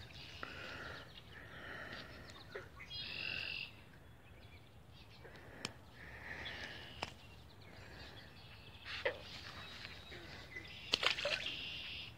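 Birds chirping and calling on and off throughout, with a short buzzy trill about three seconds in. A few sharp clicks and rustles are heard in the second half.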